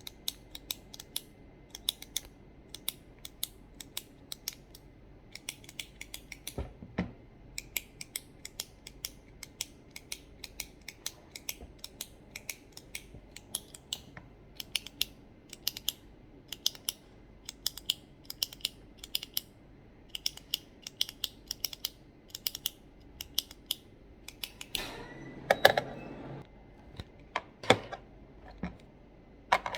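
Fast tapping on hard office objects: quick runs of sharp clicks, several a second, with a short scratching rub about 25 seconds in and a few duller knocks.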